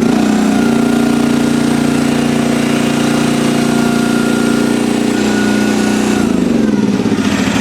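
HY14C mini excavator's small diesel engine running steadily just after starting. Its pitch drops slightly about five seconds in and slides lower again near the end.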